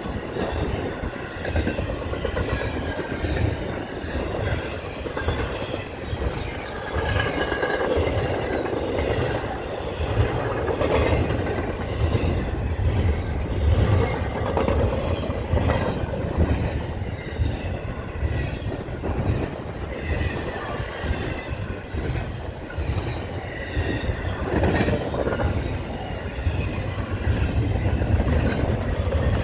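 Mainline train cars rolling steadily past at close range, wheels clattering over the rail with some faint wheel squeal, and wind buffeting the microphone.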